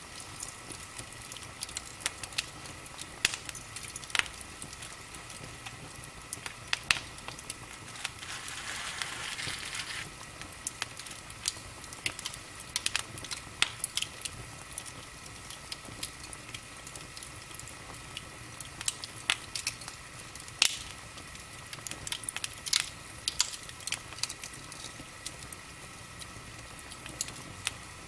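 Wood fire burning in a fireplace, crackling with irregular sharp pops, and a short hiss from the burning wood about a third of the way through. A faint steady high tone sits underneath.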